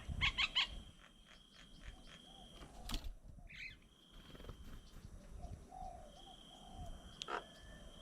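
Birds chirping and calling at a feeding table, with a quick run of chirps at the start and low cooing notes later, plus a sharp tap a few seconds in. A thin, high, steady whine comes and goes in the background.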